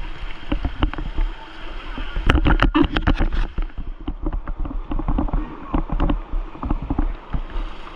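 Kayak paddles splashing and churning river water, a rapid run of sharp splashes about two to three seconds in, over a steady low rumble.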